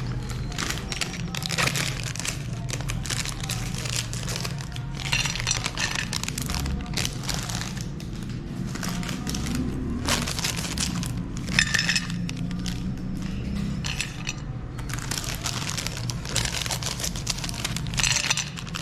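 Meat grinder crushing frozen ice cream bars: continuous cracking and crunching that comes in several denser spells, over a steady low hum.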